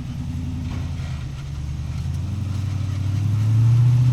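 Off-road rig's engine running at low revs, then rising in pitch and growing louder from about two seconds in as it accelerates.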